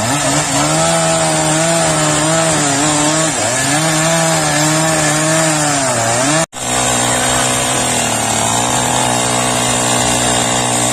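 Two-stroke chainsaw cutting through the trunk of a large fallen takhian tree, its engine pitch sagging and recovering as the chain bites into the wood. The sound cuts out for an instant about two thirds of the way through, then the saw runs on at a steadier pitch.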